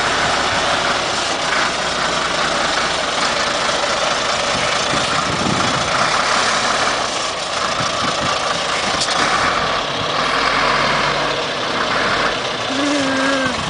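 Heavy diesel vehicle engine idling steadily, with a short held tone about a second before the end.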